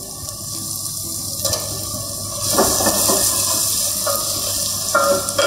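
Sliced tomatoes sizzling in hot oil with frying onions in a pot, the hiss growing louder about halfway through, while a wooden spatula stirs and knocks against the pot.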